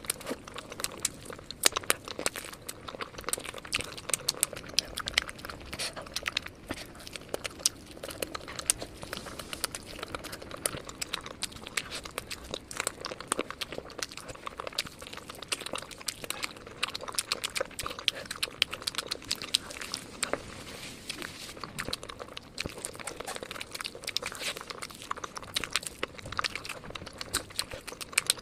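Close-miked biting and chewing of crispy fried chicken drumsticks: a dense, irregular run of sharp crunches from the fried coating.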